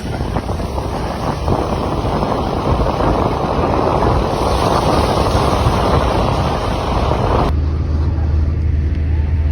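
A loud rushing noise like wind buffeting the microphone, which cuts off abruptly about seven and a half seconds in. It gives way to a steady low vehicle drone with a constant hum.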